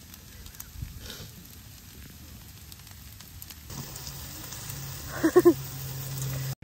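Fried rice sizzling quietly in a grill pan on a portable stove. Near the end, after a change of scene, three short loud pitched sounds come in quick succession over a steady low hum.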